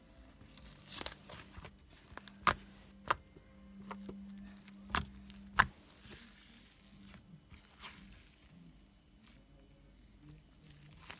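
Slime being stretched and worked by hand into a thin film, crackling, with a handful of sharp pops scattered through.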